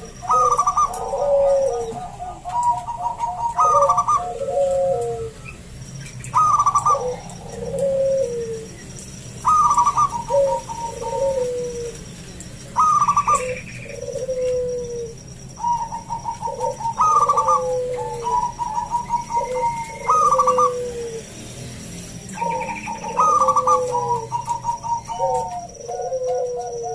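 Zebra dove (perkutut) cooing its song over and over, each phrase a few deep coos with a fast rolling trill, repeated every two to four seconds. It is a thick, full-voiced singer in frequent song.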